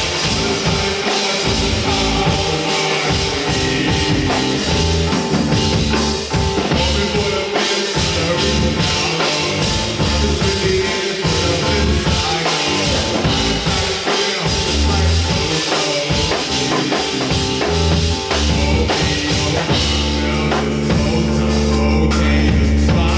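Live rock band playing an instrumental passage, with drum kit, bass and guitar, and a sustained low bass note near the end.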